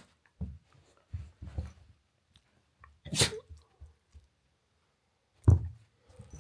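Cavapoo puppy sneezing: a sharp sneeze about three seconds in and a louder, deeper one near the end, with softer short knocks in between.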